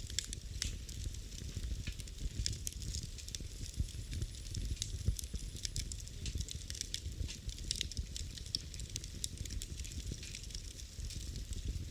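Wood fire in a fireplace crackling: frequent irregular sharp pops and snaps over a steady low rumble of flame.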